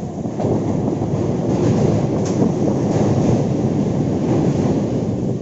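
Electric multiple-unit (EMU) local train running, with a steady rumble of wheels on the track and a brief sharp click about two seconds in.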